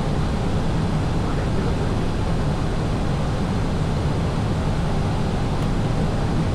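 Steady rush of airflow and engine noise heard inside an Airbus airliner in flight, a constant low drone with no change in level.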